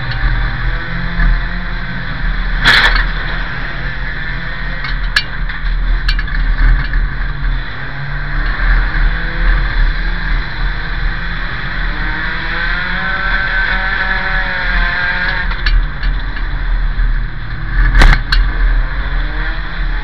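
Banger race car's engine heard from inside the stripped cabin, revving up and down as the car laps the oval. Two loud knocks cut through, about three seconds in and near the end, with a few lighter clicks between.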